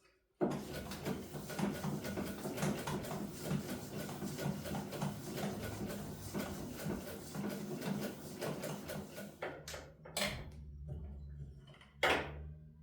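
Sewing machine stitching in a fast, even run of clicks, stopping about nine seconds in, followed by two sharp knocks. The owner says this machine sews with difficulty even after being oiled.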